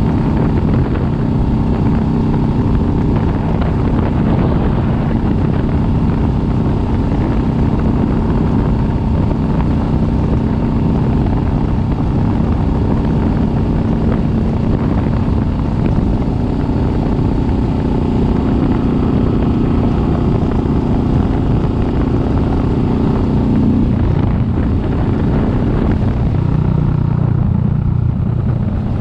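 Kawasaki Vulcan S 650's parallel-twin engine running under way. Its pitch climbs over several seconds, then drops suddenly about three-quarters of the way through and carries on at a lower note.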